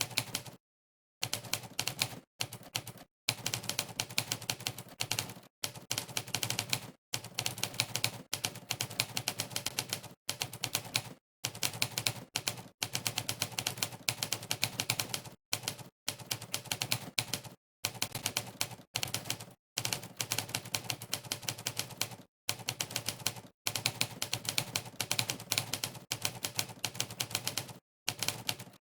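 Monkeytype's sampled typewriter keystroke sound, one clack per key pressed, in fast runs of rapid clacks broken by short silent gaps.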